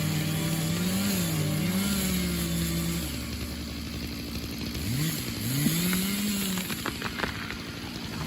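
An engine revving up and down, its pitch rising and falling several times, with a short drop in the middle and a few sharp knocks near the end.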